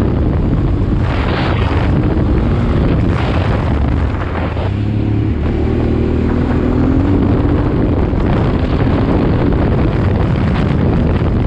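Honda Transalp 650's V-twin engine running under way, heavily buffeted by wind on the action camera's microphone. About halfway through, the engine eases off briefly, then its pitch climbs again.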